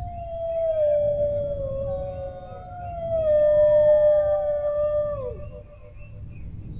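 Dogs howling together: long, slowly falling howls that overlap one another and trail off about five seconds in, over a low background rumble.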